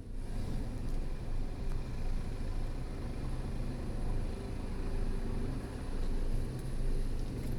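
Helicopter hovering: steady rotor and engine noise with a low, even hum.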